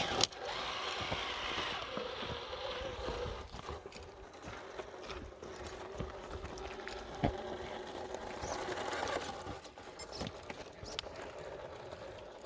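1/10-scale Traxxas TRX-4 Sport RC crawler creeping over rock at low speed: a faint steady whine from its electric motor and geartrain, with scattered clicks and knocks as the tires and chassis meet the rocks.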